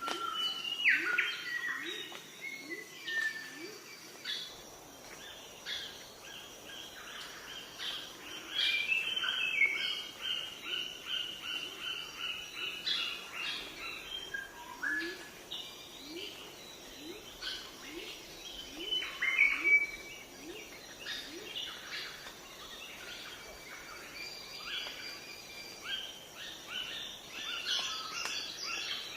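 Several birds chirping and calling at once, with quick overlapping chirps and trills. Runs of short, low rising notes repeat a few times a second near the start and again midway.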